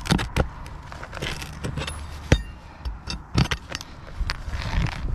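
Roof shingle repair by hand: irregular knocks, scrapes and rustling on the shingles, with one sharp metallic clink that rings briefly about two seconds in, over a steady low rumble.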